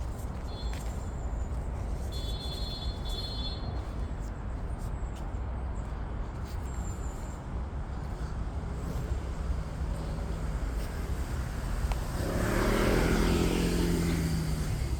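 Steady outdoor rumble, then a motor vehicle passing close by, swelling louder about twelve seconds in and fading just before the end.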